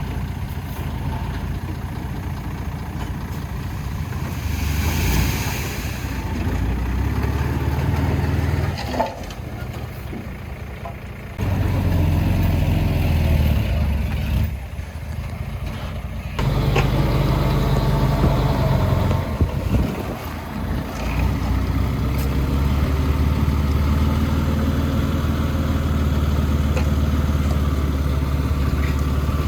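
Heavy diesel engines of construction machinery running, a low steady rumble whose level jumps abruptly a few times, with a brief hiss about five seconds in.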